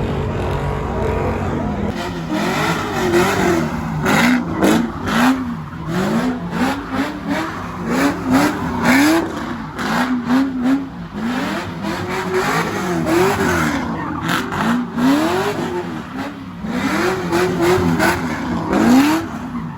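Car engine revving hard again and again, its pitch climbing and dropping in quick repeated swells, as at a street drift.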